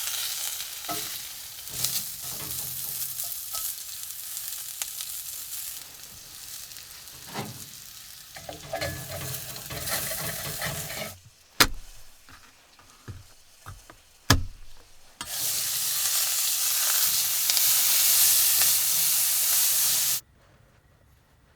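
Food sizzling and frying in a pan with rosemary and garlic. Partway through it goes quieter, with two sharp knocks about three seconds apart. Then a louder sizzle runs for about five seconds and cuts off suddenly near the end.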